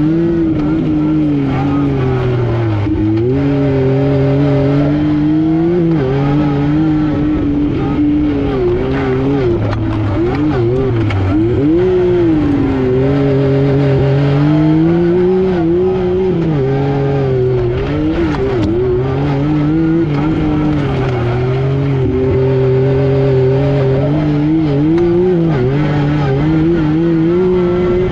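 Yamaha YXZ1000R SS side-by-side's three-cylinder engine running under load while being driven, its pitch climbing and dropping repeatedly as it accelerates, shifts and backs off.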